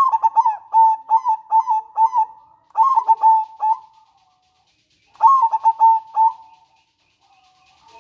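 Zebra dove (perkutut) singing: three phrases, each a quick run of short staccato coos, with brief pauses between them.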